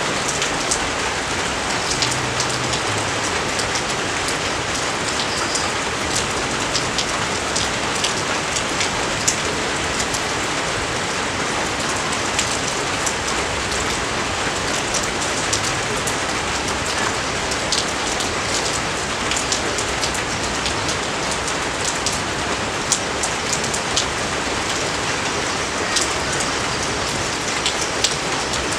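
Steady rain falling, a constant hiss dotted with many sharp individual drop hits.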